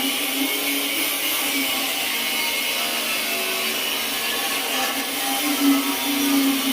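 Angle grinder running steadily with a constant whine.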